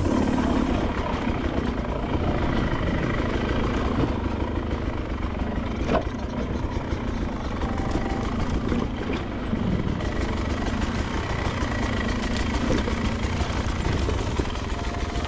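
Beta 300 RR two-stroke dirt bike engine running steadily at low revs, with one sharp knock about six seconds in.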